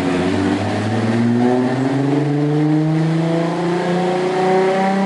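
A car engine pulling hard, its pitch climbing slowly and steadily as the revs rise.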